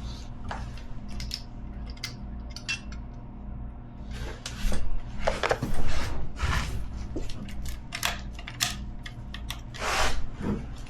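Metal tools and bike parts clinking, clicking and knocking irregularly as an electric dirt bike is taken apart, with a louder run of knocks in the middle and another near the end.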